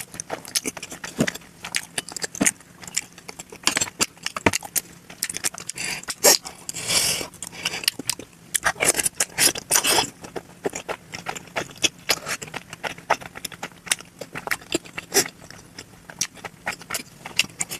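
Close-miked eating sounds of momo dumplings being chewed: a dense run of wet mouth clicks and smacks, sped up to double speed, with a louder slurping stretch about seven seconds in.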